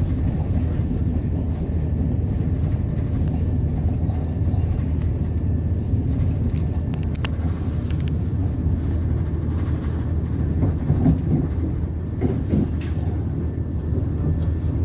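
A moving train: a steady low rumble of wheels and running gear on the rails, broken by a few short sharp clicks.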